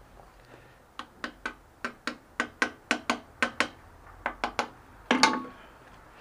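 A run of about a dozen sharp taps, roughly three a second, with a short pause before the last three, then one louder knock with a brief rattle near the end. These are struck blows on the spin bike's parts as it is worked on.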